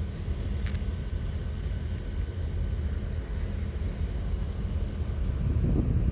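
Low, steady rumble of railyard equipment running close by, most likely a diesel locomotive engine, with a couple of faint clicks in the first second and a swell in loudness near the end.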